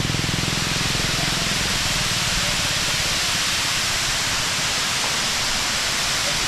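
Steady rush of water falling over a dam spillway as a shallow cascade. A low droning hum fades out about a second in.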